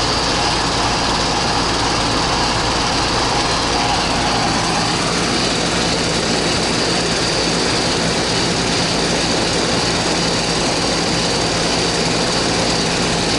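Goodman R22 central air conditioner running steadily, its compressor and condenser fan giving a continuous low hum. The system is cooling again with its gauge pressures in the normal range, now that a frozen evaporator caused by a dirty air filter has been thawed.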